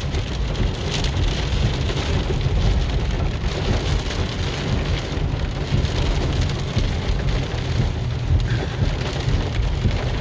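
Rain falling on a moving car's roof and windshield, over a steady low rumble from the car and the road.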